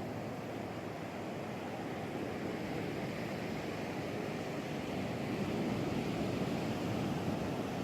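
Steady rush of ocean surf breaking along the shore, swelling a little about five seconds in.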